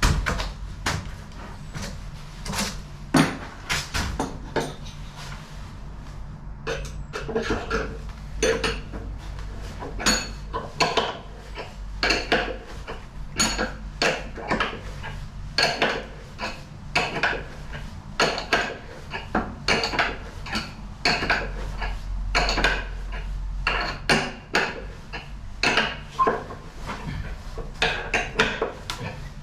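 Hand tools and metal parts clinking and knocking in many short, irregular taps and clicks while an LG washing machine is being taken apart.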